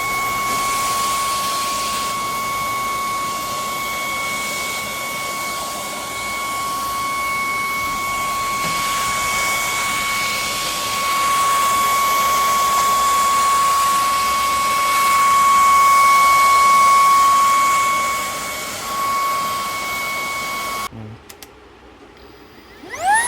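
ILIFE G80 cordless stick vacuum running, its motor giving a steady high whine over rushing air. Near the end it cuts off suddenly, then about two seconds later spins up again with a rising whine.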